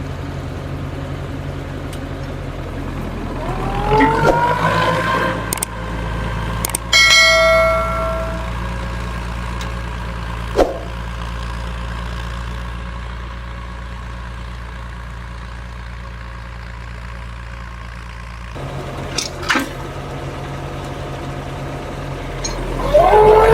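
An engine running steadily at idle, its pitch rising as it revs up about four seconds in and again near the end. A short ringing metallic clang sounds about seven seconds in, and there are a few sharp knocks later.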